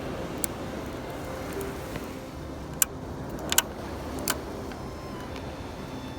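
Steady background noise with a handful of sharp clicks, the loudest a single click near the middle and a quick pair about half a second later.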